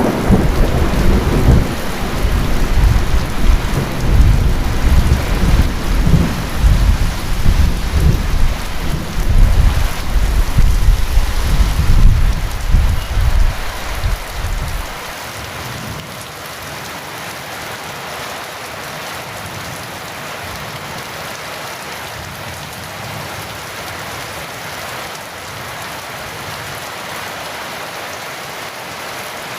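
Heavy rain falling steadily, with a long rolling rumble of thunder through the first half that stops abruptly about halfway through, leaving only the even hiss of the rain.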